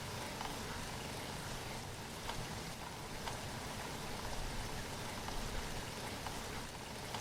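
Steady rain falling, a continuous hiss with scattered drops tapping on a surface.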